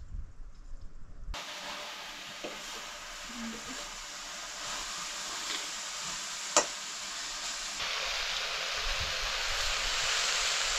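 Food sizzling in hot oil in a cooking pan: a steady frying hiss that starts suddenly a little over a second in and grows stronger near the end, with a single sharp click partway through.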